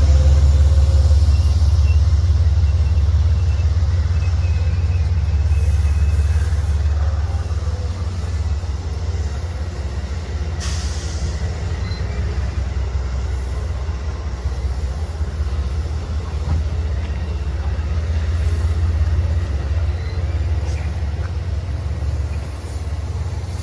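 A train rolling past with a steady low rumble that eases slightly partway through, and a single sharp click about ten seconds in.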